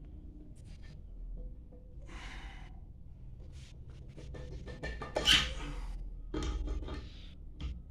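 Metal parts of a hydrophore pump being handled and fitted during reassembly: scattered clinks, knocks and short scrapes, with one sharp, loudest strike a little past five seconds in.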